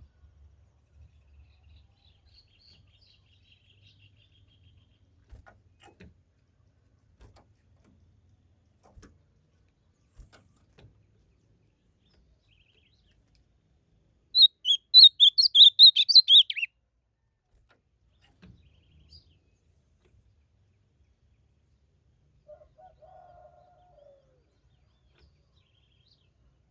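Ultramarine grosbeak (azulão) singing one short, loud phrase of quick notes about halfway through. Otherwise there are only faint scattered sounds.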